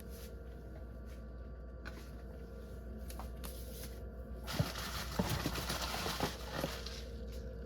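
Craft supplies being handled: a few faint ticks, then about halfway through a rustling of packaging with small taps, over a low steady hum.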